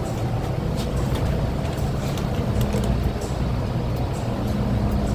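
MTR M-Train electric multiple unit standing at a platform with its doors open: a steady low hum of its onboard equipment, with scattered short clicks and knocks.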